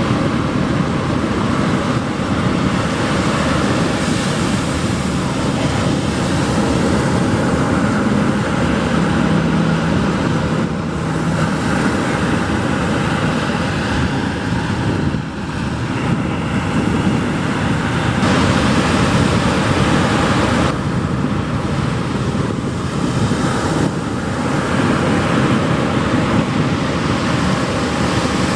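Ocean surf: waves breaking and washing onto the shore in a continuous rush that swells and eases every few seconds.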